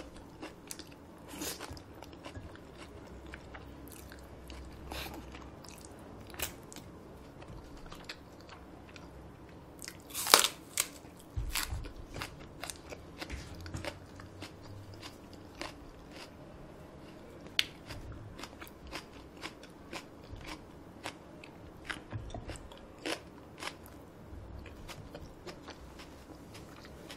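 A person chewing a mouthful of cold spicy bibimmyeon noodles right at the microphone: many irregular small mouth clicks and smacks, with a louder cluster about ten seconds in.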